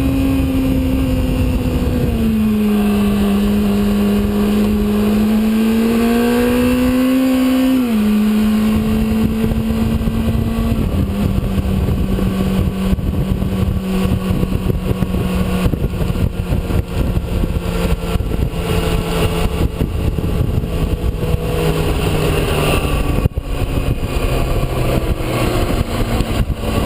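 Sport bike engine at part throttle: the revs dip and climb again, drop suddenly with a gear change about eight seconds in, then sink slowly as the bike slows down.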